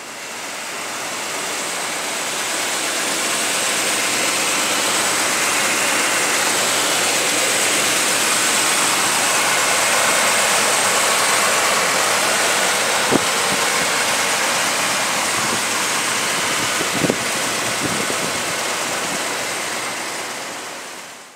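1966 Chrysler Imperial's 440 V8 idling, heard close in the engine bay as a steady loud rushing hiss with little low rumble, and two faint ticks partway through.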